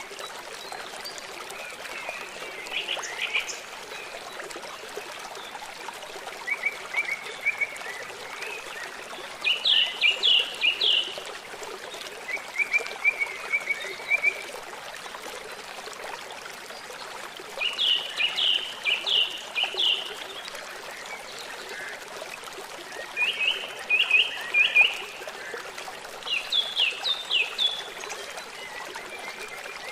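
Songbirds singing short phrases of rapid repeated chirps every few seconds over the steady trickle of running water from a stream.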